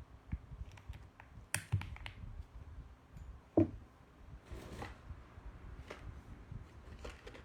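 Mechanical keyboard keystrokes, a few scattered clicks rather than steady typing, with one louder thump about three and a half seconds in.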